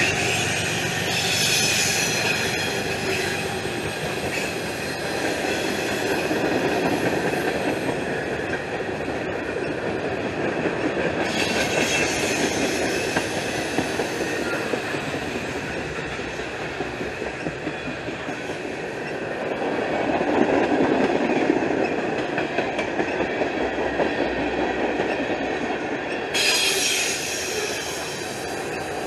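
Freight cars of a CSX train rolling past at track level: steady wheel-on-rail rolling noise, with high-pitched wheel squeal coming in three stretches, about a second in, around eleven seconds in, and near the end.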